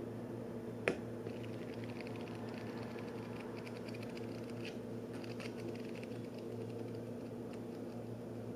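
Pages of a book being leafed through: faint, light rustling over a steady low hum, with one sharp click about a second in.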